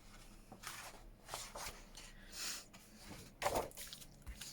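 Paper pages rustling and sliding as they are handled and turned, in several short soft swishes about a second apart.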